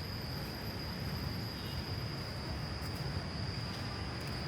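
Insects shrilling in one steady high tone that never stops, over a constant low rumble.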